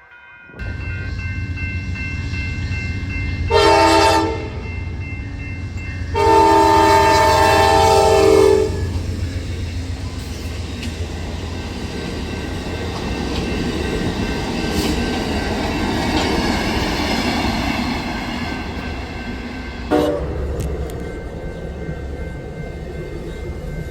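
Train horn sounding a short blast and then a longer blast, several notes at once, followed by the train passing with a steady rumble and rolling wheel noise on the rails.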